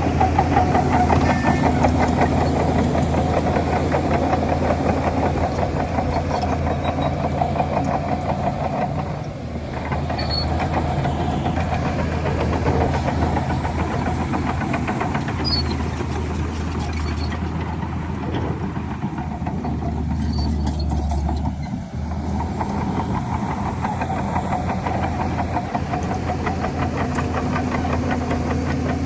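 Heavy diesel engine of a bulldozer running under working load, a steady low firing rumble whose pitch and loudness shift as the load changes, easing briefly about nine seconds in and again near twenty-two seconds.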